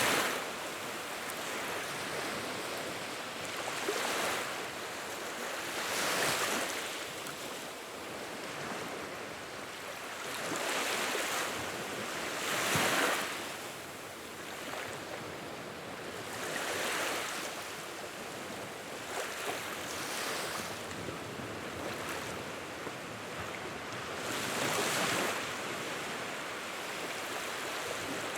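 Fire burning in a fireplace: a rushing hiss of flames that swells and fades every few seconds, with a few faint crackles and pops.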